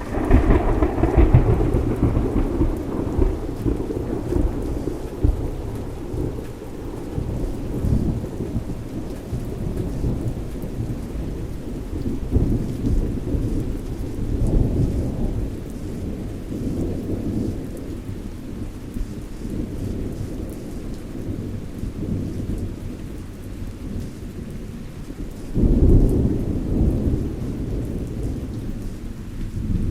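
Thunderstorm: steady rain with rolling thunder. A loud peal breaks right at the start and rumbles away over several seconds, and a second peal swells about 26 seconds in.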